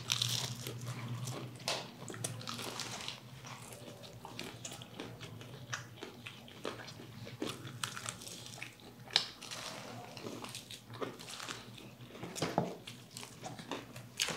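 Close-miked eating of crispy fried chicken: irregular crunches from biting and chewing the coated skin, mixed with wet mouth sounds.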